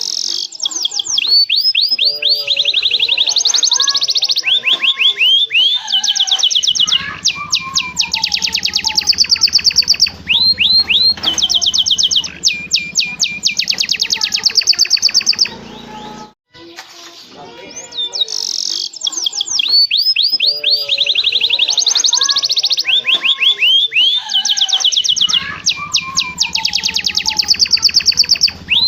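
Domestic canary singing steadily, a long song of fast rolling trills and rapid sweeping notes. The same passage repeats about every 18 seconds, with a short break near the middle, so the recording is looped.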